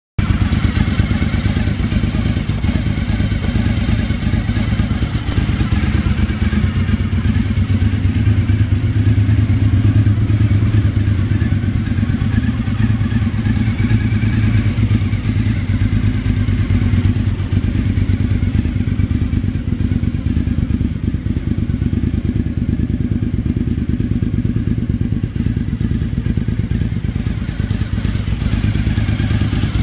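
Suzuki TL1000R's 90-degree V-twin engine idling steadily after start-up.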